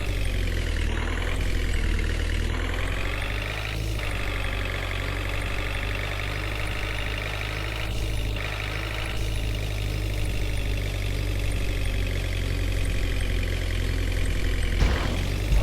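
JCB 3DX backhoe loader's diesel engine running, its speed dipping and rising a little in the first few seconds and then holding steady, with a couple of faint knocks.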